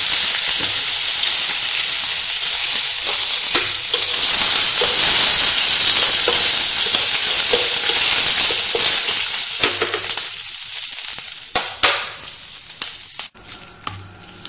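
Curry leaves, cumin seed and mustard seed sizzling loudly in hot oil in a kadai for a tadka. The sizzle dies away after about ten seconds, followed by a few sharp clicks.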